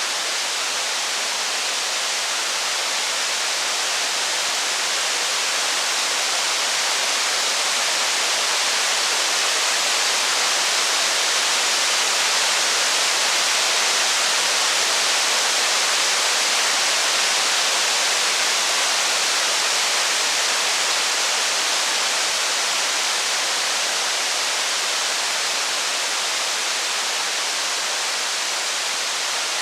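Steady rain, a dense even hiss that slowly swells a little louder mid-way and eases back.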